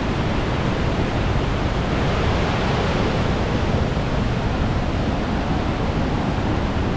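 Steady, unbroken rush of Vernal Fall's water crashing down, heard close up.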